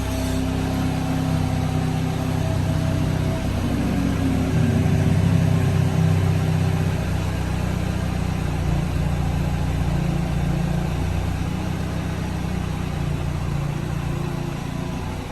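BMW F30 330i's turbocharged four-cylinder engine idling steadily after a cold start, swelling a little about four to six seconds in and easing slightly near the end.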